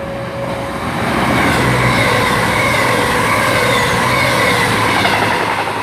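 Class 221 Voyager diesel-electric multiple unit passing through the station without stopping, at reduced speed: a steady rush of wheels and engines that swells about a second in, holds with a few steady whining tones, and fades near the end.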